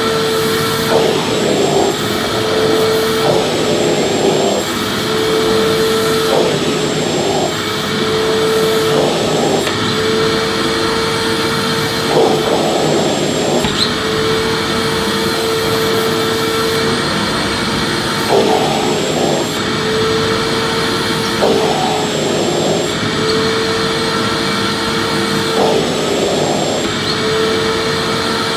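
Vacuum cleaner motor running steadily: a loud, even rushing noise with a steady mid-pitched hum and a faint high whine.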